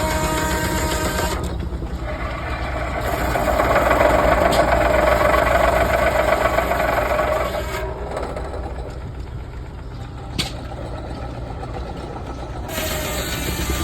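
Steam traction engine driving a sawmill, a steady low machine rumble. About three seconds in, a higher whine builds and holds for about four seconds before dropping away, as of the saw blade under load in a cut. A single sharp click comes about ten seconds in.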